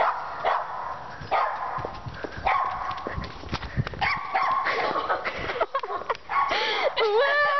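A dog barking repeatedly, with higher yelping and whining cries near the end.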